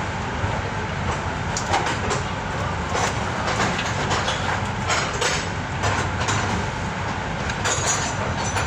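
Steady mechanical rumble with a low hum and irregular clacks and knocks.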